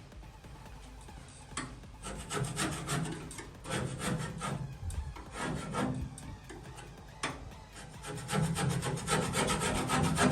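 A scraping tool being worked across old underseal on the 1966 Chevy C10's firewall, in bouts of quick back-and-forth strokes, with the longest and busiest bout near the end.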